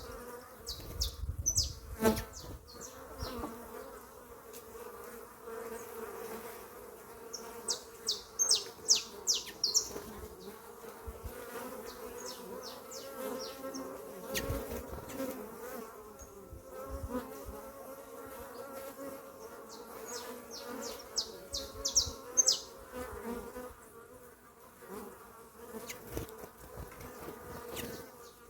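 Honeybees buzzing in a steady hum around fruit. Short flurries of high chirps from small birds break in several times.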